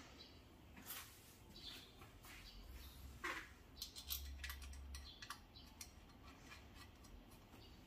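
Faint scattered clicks and a few short scrapes of hands-on work, about a dozen small ticks spread irregularly, the busiest stretch in the middle.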